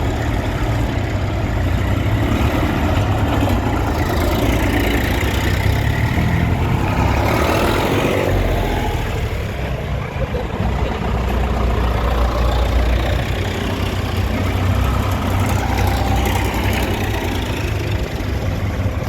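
Tractor engines running at idle, a steady low rumble.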